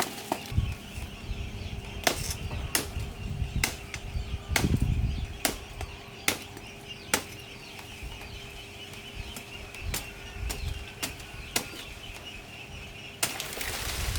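A series of sharp, irregular knocks, roughly one or two a second, with a few low thuds among them, over a steady high-pitched hum.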